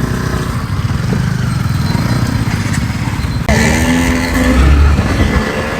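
Motorcycle engine running under way with a pulsing low rumble. About three and a half seconds in, the engine note rises as it revs and accelerates.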